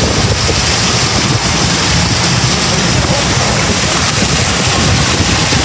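Steady rush of wind buffeting the microphone on a moving tour boat, mixed with the boat's engine and water noise. It is loud and unbroken, with no clear knocks or calls.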